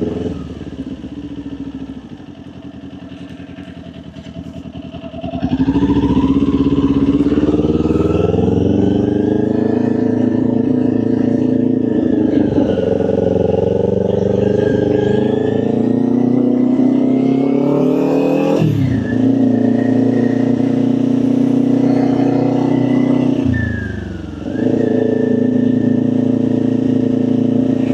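Kawasaki Ninja 400 parallel-twin engine heard from the rider's seat: quieter at first, then pulling away about five seconds in with its pitch rising slowly as it accelerates. It drops sharply at a gear change about 19 seconds in, dips again briefly around 24 seconds, then runs steadily.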